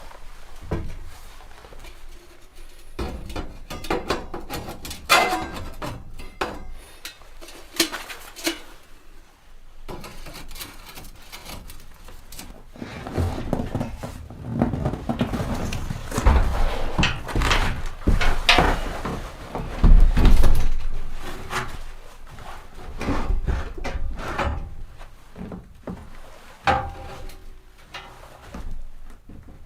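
Irregular knocks, thuds and scraping of objects being handled and set down on wooden surfaces, busiest and loudest in the middle with some heavy thumps.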